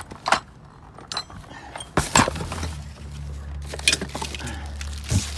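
Metal door hardware (door handles and lock parts) clinking and clattering as pieces are handled and knocked together, in several separate hits. A steady low hum comes in about two seconds in.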